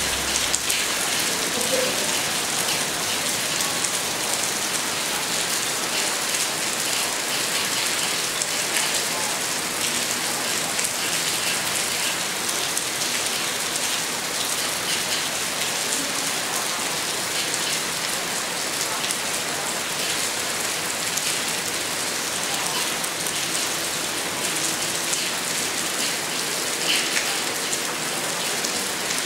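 Steady rain falling on the leaves of a jackfruit tree: an even hiss with many small drop taps.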